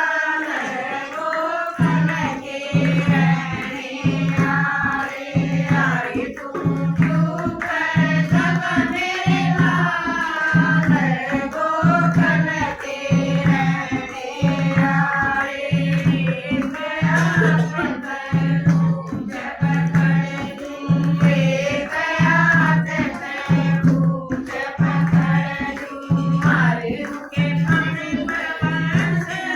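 Haryanvi devotional bhajan to Krishna: a sung melody over a steady, evenly spaced drum beat.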